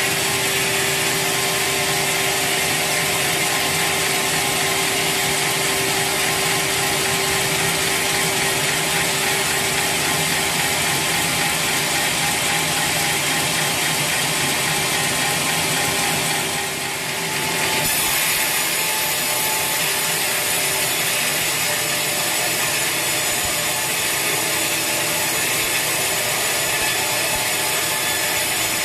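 Sawmill saw cutting through a large teak log, running loud and steady with a high hiss. It dips briefly about two-thirds of the way through, then carries on.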